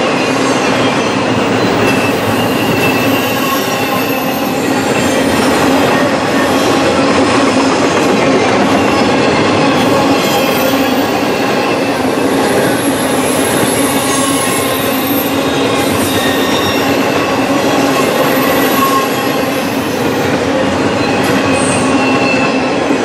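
Double-stack container cars of a freight train rolling past at speed: a steady, loud roar of steel wheels on rail, with high-pitched wheel squeals coming and going.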